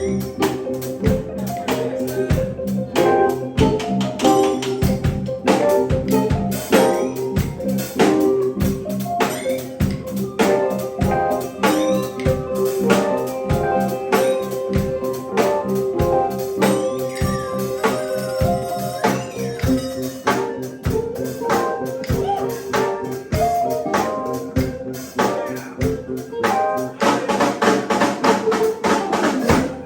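A live band playing, with a drum kit keeping a steady beat under held chords and melody notes.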